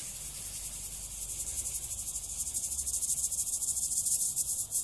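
Fine gravel grit hissing and rustling in a fast, even patter as it is shaken or handled, growing louder about three seconds in.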